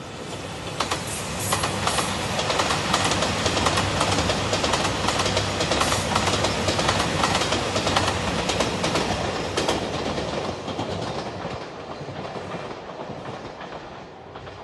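JR Shikoku limited express train passing close by, its wheels clacking over the rail joints. The sound builds quickly, stays strong for several seconds, then fades as the train moves away.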